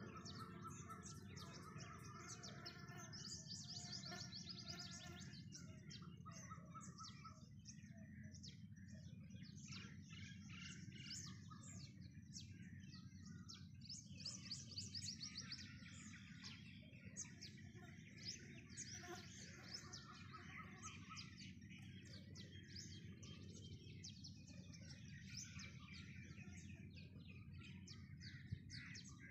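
Small birds chirping and twittering throughout, with many short, high, quick notes over a steady low background noise.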